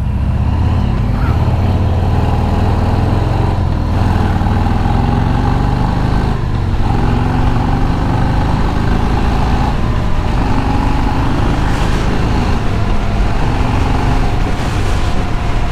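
Motorcycle engine running at road speed, with heavy wind rumble on the rider's helmet microphone. The engine note shifts up and down a few times.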